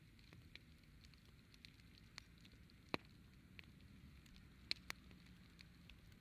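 Campfire crackling: scattered sharp pops and snaps of burning wood, the loudest about three seconds in and a quick pair near five seconds.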